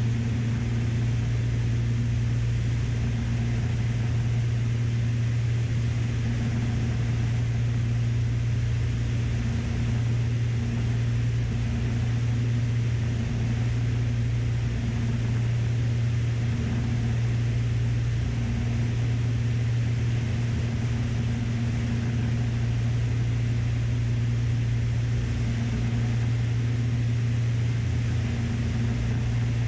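Cockpit drone of a Beechcraft Baron B55's twin piston engines and propellers, running steadily on final approach. A higher note in the drone swells and fades slowly and regularly.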